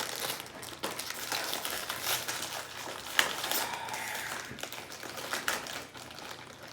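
Snack packaging crinkling and crackling as a bag of individually wrapped white chocolate cookies is handled and opened, with a sharp snap about three seconds in.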